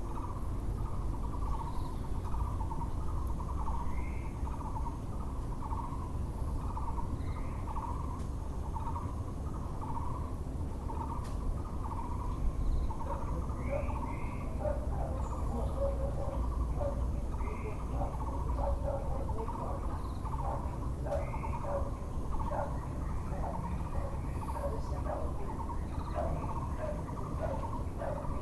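Taiwan barbet (Muller's barbet) repeating its call in a steady, even series. About halfway through a second, faster run of lower notes joins in, with a few brief higher bird chirps and a steady low background hum.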